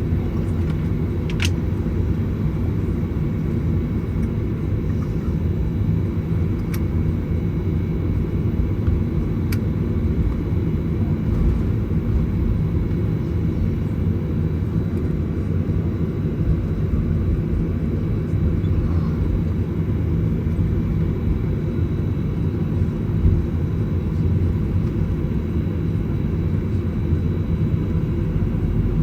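Steady low cabin rumble inside a Boeing 737-900ER on the ground before takeoff, with a faint steady high whine and a few brief clicks in the first ten seconds.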